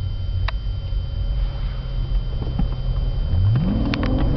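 Mercedes S600 twin-turbo V12 running steadily at low revs, then, about three seconds in, the revs climb quickly as the car launches under hard acceleration.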